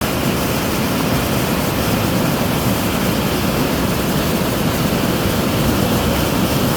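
Steady, loud rushing of a large volume of floodwater flowing past.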